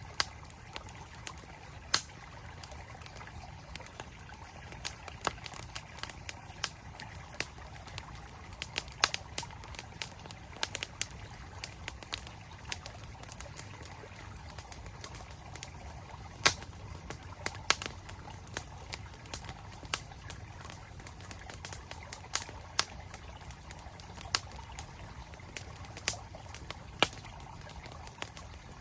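Wood campfire crackling, with irregular sharp snaps and pops, over the steady sound of a flowing mountain stream.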